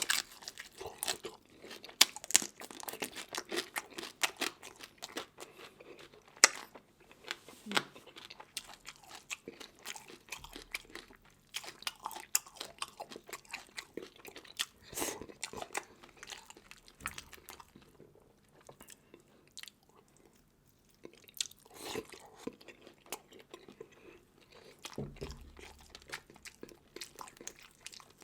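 Close-up chewing and crunching of a seafood meal, with many irregular sharp crackles from the bites and a short lull about two-thirds through.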